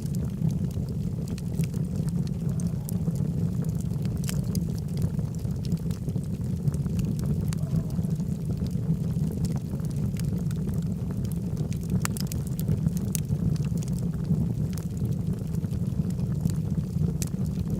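Logs burning in a fireplace: a steady low rumble of flames with frequent sharp crackles and pops scattered irregularly throughout.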